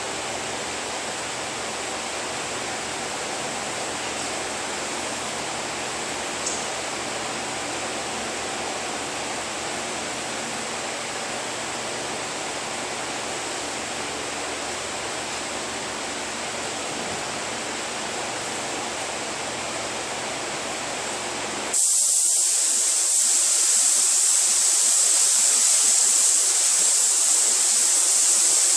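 Steady rushing air noise, then about three-quarters of the way through a louder, high-pitched hiss of a paint spray gun starts abruptly and holds steady.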